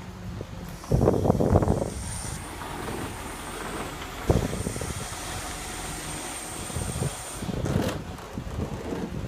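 Boat lift machinery working as a boat is lowered into the water: a loud rushing hiss about a second in, a sharp clunk a little past four seconds, and a faint high whine through the middle.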